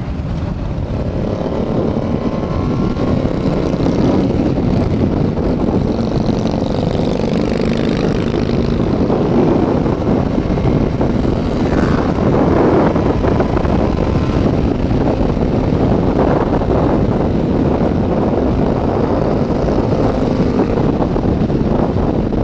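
Motorcycle engines running steadily on the road.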